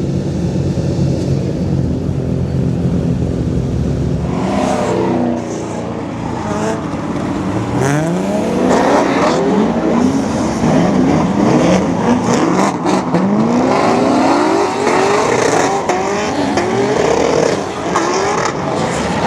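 Drift cars on a wet track, their engines revved hard again and again, the pitch repeatedly climbing and dropping as the cars pass. This starts about four and a half seconds in, as background music ends.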